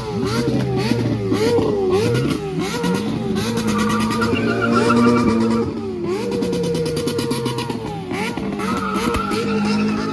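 Car engines revving hard, the pitch swinging rapidly up and down about twice a second at first, then held high and steady, with another engine running underneath. The revving drops off about six seconds in and climbs again near the end.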